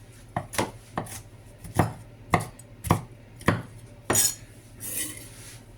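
Kitchen utensil knocking and clinking against cookware: a series of separate sharp knocks, roughly half a second apart, then a short scrape about four seconds in.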